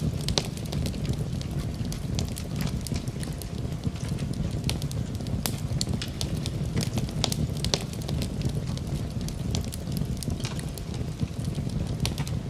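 Wood fire burning steadily with a low rumble, scattered with irregular sharp crackles and pops.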